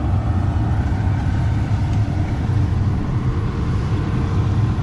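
Combine harvester running steadily, a low, even engine and machinery drone.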